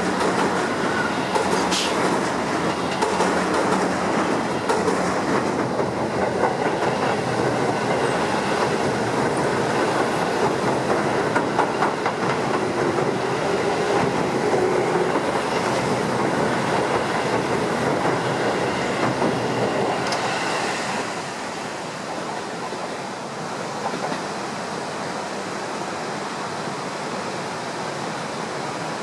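Keio Line electric commuter train running past with a steady rail noise, which eases about 21 seconds in, leaving the even rush of the muddy, flood-swollen river.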